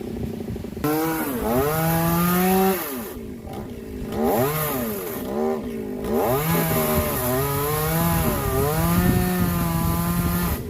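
Chainsaw revving up about a second in and cutting, its pitch dipping and climbing again and again as the chain bogs in the wood, then cutting off near the end.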